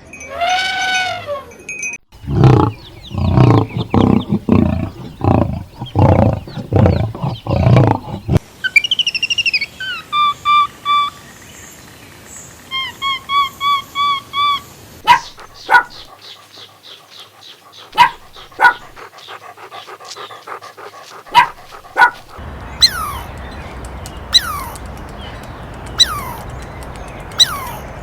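A succession of different animal sounds: a pitched call at the start, then a dog barking repeatedly for several seconds, followed by high, rapidly repeated bird chirps and sharp calls, and short falling chirps near the end.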